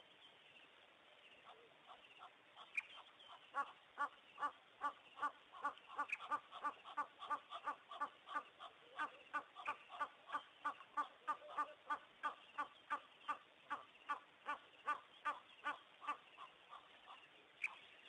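A bird calling a long run of short, repeated notes, about three a second. The run starts a few seconds in and stops near the end, with an occasional single higher call.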